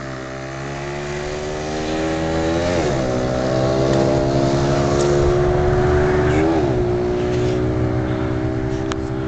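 Small single-cylinder mini bike engine running at full throttle through a drag run, its pitch climbing with two brief rises and dips, about three seconds and six and a half seconds in.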